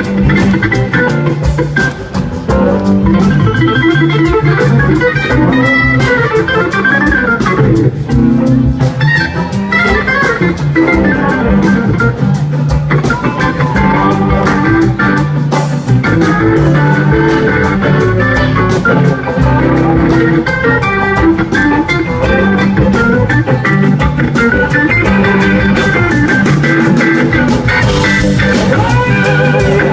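Band music with organ, guitar and drums, played loud and steady with a regular beat.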